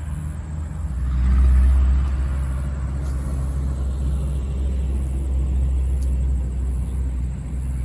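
Road traffic: a vehicle passing, rising to its loudest about a second and a half in and then easing off, over a steady low rumble.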